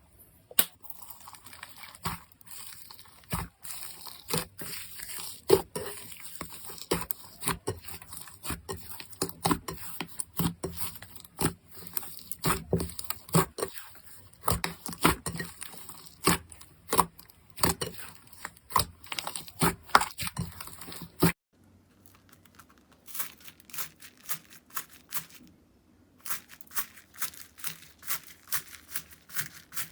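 Slime being squeezed and pressed by hand, giving off dense, irregular crackling pops and clicks. About two-thirds in, it cuts to a quieter clip with runs of sharper clicks.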